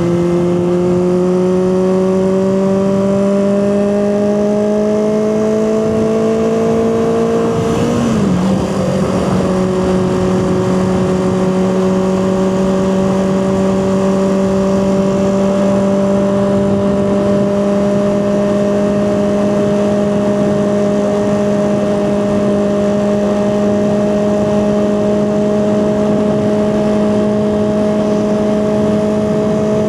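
Honda CB400/4 Super Sport's air-cooled inline-four engine under way, its note climbing steadily as the bike accelerates. About eight seconds in the note dips and wavers briefly in a gear change, then the engine holds an even pitch at cruising speed, with wind noise behind it.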